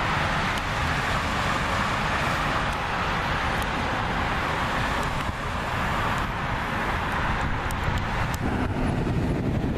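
A car driving, with steady tyre and road noise heard from inside the cabin; the low hum shifts about eight and a half seconds in.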